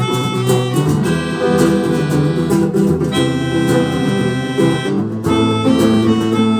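Rock band playing an instrumental passage with no vocals, guitar to the fore over bass and sustained chords.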